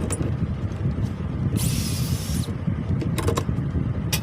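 Electric machine saw running with a steady low rumble. Partway through there is a short high-pitched hiss lasting about a second, and a few sharp clicks come near the end.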